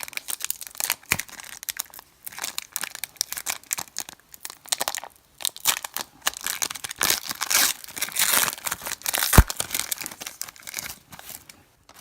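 Foil trading-card pack wrapper crinkling and tearing as it is opened, in irregular crackling bursts, with one sharp knock about nine seconds in.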